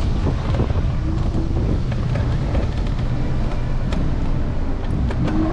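Steady low rumble of wind buffeting the microphone of a camera mounted on a moving electric scooter's handlebars, mixed with city street traffic.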